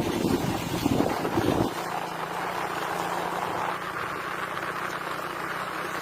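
Wind buffeting the microphone in a loud low rumble for the first second and a half, cutting off abruptly, then a steady outdoor hiss.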